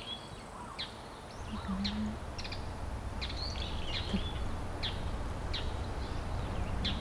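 Wild birds in a garden calling with short, high chirps, about one a second, over a low steady rumble that comes up about a second and a half in.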